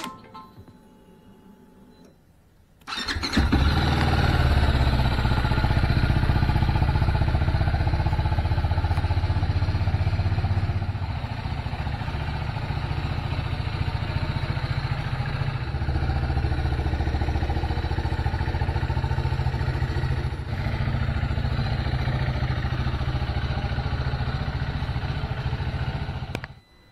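TVS Apache RR310's single-cylinder engine starts about three seconds in and runs, with its level stepping up and down a few times, then is switched off near the end.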